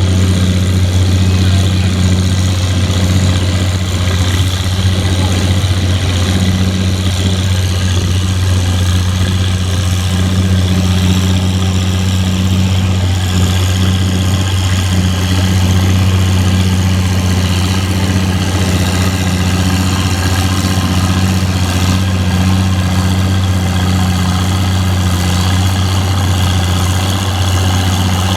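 An engine idling steadily with a constant low hum that neither revs up nor dies away.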